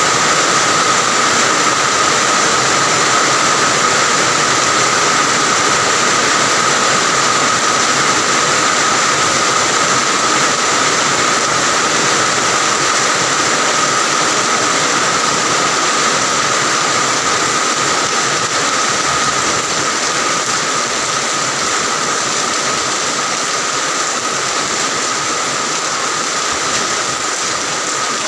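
Steady rain falling, a dense, even hiss that eases slightly toward the end.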